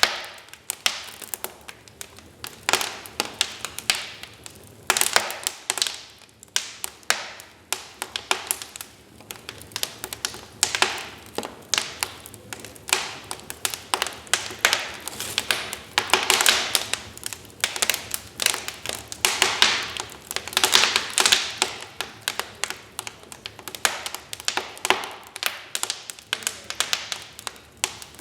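Wood fire crackling in a fireplace: irregular sharp pops and snaps, coming in denser flurries a little past halfway.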